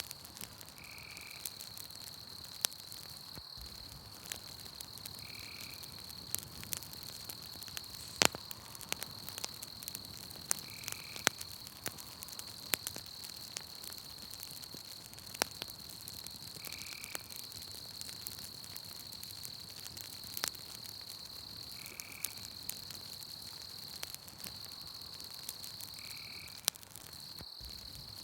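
Campfire crackling with scattered sharp pops, over a steady high insect trill from the night forest. A short call repeats six times, about every five seconds.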